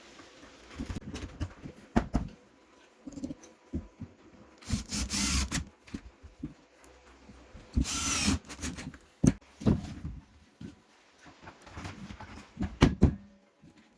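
Workbench handling noise: irregular knocks and clatter, with two brief loud rushing bursts about a second long, near the middle.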